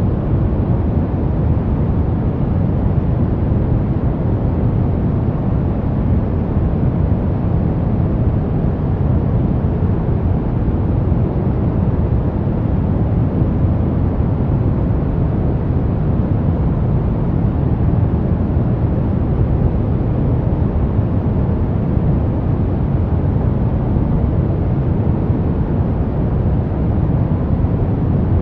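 Steady brown noise: an even, deep rush with most of its energy low and little treble, unchanging in level.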